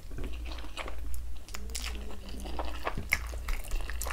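A mouthful of palm butter soup and rice, eaten by hand, being chewed close to the microphone, with wet mouth clicks at irregular moments.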